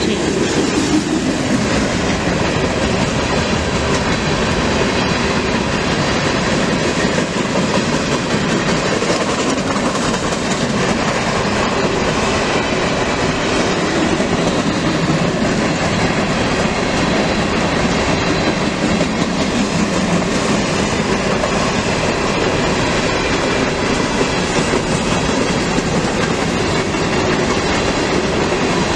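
Freight train cars rolling steadily past, their wheels clattering over the rail joints.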